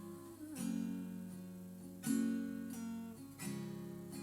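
Acoustic guitar strumming chords, a fresh strum about every second and a half, each left to ring and fade.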